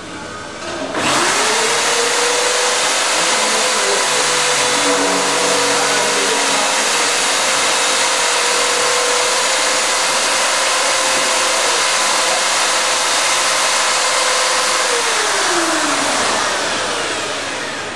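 Homemade slot milling machine, its hand-drill motors spinning up about a second in and running at a steady high pitch with a loud hiss through the cut. Near the end the pitch falls as the drills wind down, the machine switching itself off when the cut is complete.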